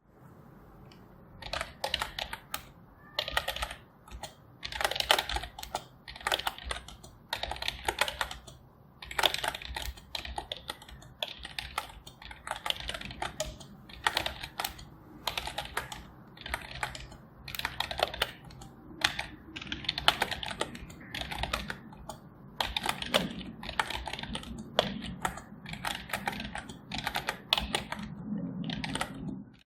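Typing on a computer keyboard: runs of rapid keystroke clicks broken by short pauses.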